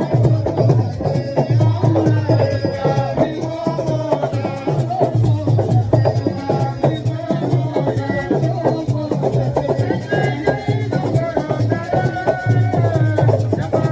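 Live percussion ensemble playing a fast, dense drum rhythm with a shaken rattle, and voices singing over it.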